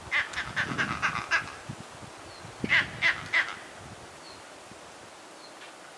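A bird calling: a quick run of about seven short, harsh notes, then three louder ones about three seconds in.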